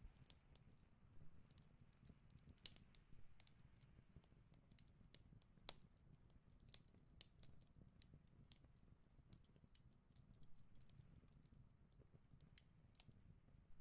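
Near silence, with faint, irregular small clicks and ticks from a pencil tracing on pattern paper and the paper being handled.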